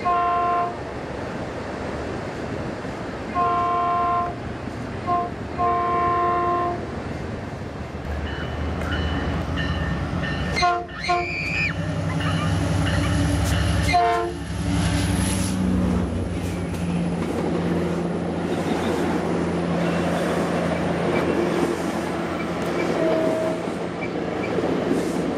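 A Metrolink diesel locomotive's chord horn sounds the long, long, short, long warning signal. Then the locomotive's engine and its bi-level passenger cars rumble past close below, with two sharp knocks midway.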